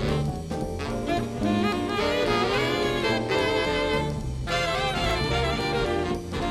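Jazz band playing a swing number, with saxophone and brass leading over a bass line.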